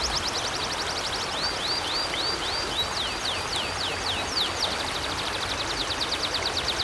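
A songbird singing a long run of quick, high, down-slurred notes, slowing to hooked notes in the middle and speeding into a fast trill near the end, over the steady rush of a flowing river.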